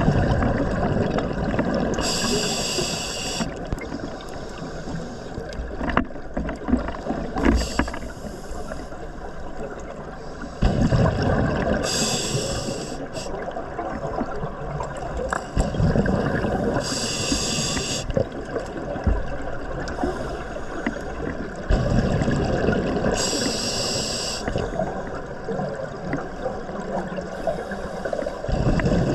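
Scuba diver breathing through a regulator underwater: a hissing inhale of about a second comes roughly every five seconds, six times, between long exhalations of rumbling, gurgling bubbles.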